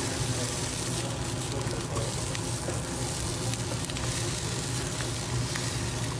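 Squash and corned beef patties sizzling in oil in a nonstick pan, a steady hiss over a low hum, with a few light clicks of a silicone spatula as the patties are turned and lifted out.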